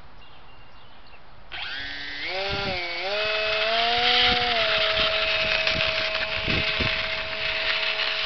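Electric motor and 6x4 propeller of a homemade foam-board RC biplane spinning up for a takeoff attempt: a whine that starts about a second and a half in, climbs in pitch in steps, then holds steady and cuts off at the very end.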